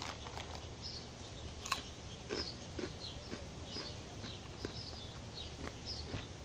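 Chewing a mouthful of crunchy star-shaped puffed snacks (Nutri Star Chicken BBQ), with irregular small crisp crunches and one sharper crunch about two seconds in.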